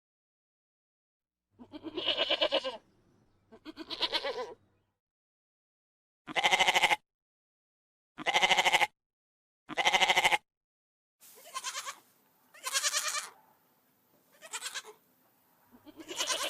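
A farm animal bleating, goat- or sheep-like: a series of quavering calls about a second long each, starting about a second and a half in and repeating every one to two seconds. The three calls in the middle are the loudest and sound alike.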